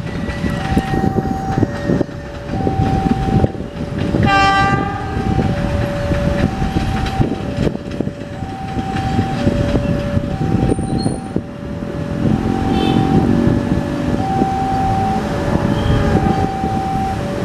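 A train running past with heavy rumbling and wheel clatter, and a short locomotive horn blast about four seconds in. Throughout, a two-tone warning alarm alternates between a high and a low tone, each held a little under a second.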